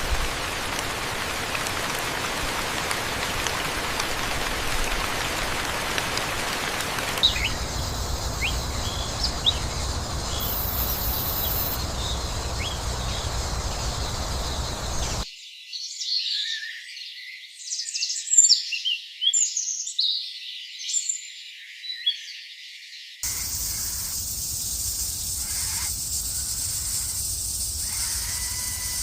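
Birds chirping over a steady outdoor background hiss. The background changes abruptly a few times, and the chirping is densest in the middle, where the low sounds drop out.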